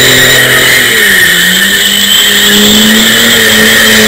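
Opel Ascona's 3.0-litre 24-valve C30SE straight-six held at high revs while the rear tyres spin and squeal continuously in a smoky drift. The engine pitch dips slightly about a second in, then holds steady.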